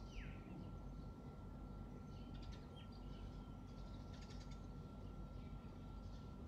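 Faint outdoor ambience with birds: a single falling whistle right at the start, then a few short high chirps about two and a half and four seconds in, over a low steady rumble and a thin, steady high tone.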